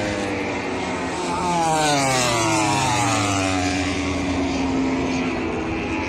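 A MotoGP racing motorcycle going past at speed, its high engine note falling steeply as it passes and fades away. Another bike's engine rises near the end.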